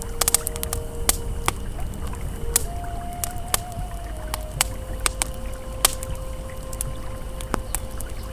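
Campfire crackling with frequent irregular sharp pops, over the steady low rush of a flowing river. Soft ambient music notes are held underneath, changing pitch a few times.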